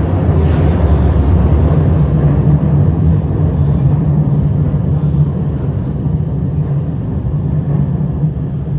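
Six-car A-type metro train running between stations, heard from inside the car: a steady low rumble of wheels on rail and running gear.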